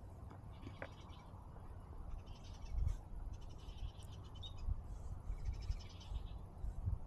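Outdoor ambience of animal calls: short buzzy trills repeating about once a second, over low wind rumble on the microphone.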